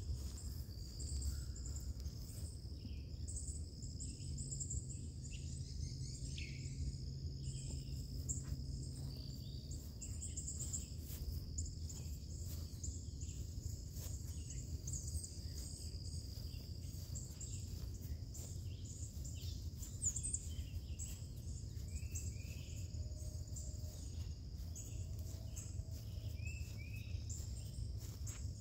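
Steady low rumble of the LS V8 in an LS-swapped 1985 Chevrolet C10 idling after a cold start, under crickets and other insects chirping and occasional bird calls.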